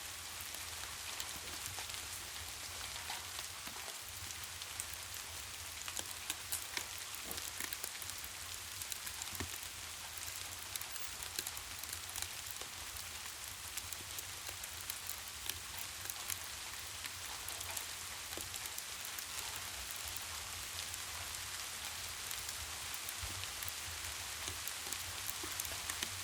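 Steady rain, an even hiss with many scattered sharp ticks of drops, over a low rumble.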